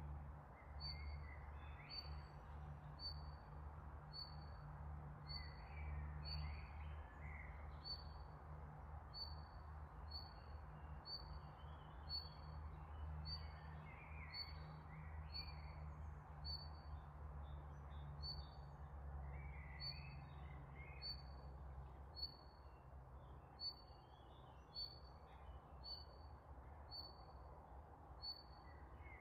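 Birds singing in riverside trees: one repeats a short high note about once a second, while another gives brief twittering phrases every five or six seconds. Underneath is a faint, steady low rumble.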